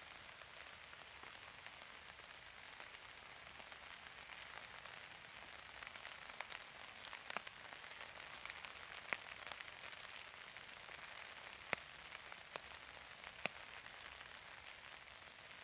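Light rain falling steadily with a faint hiss. About six single drops land with sharp taps, scattered through the second half.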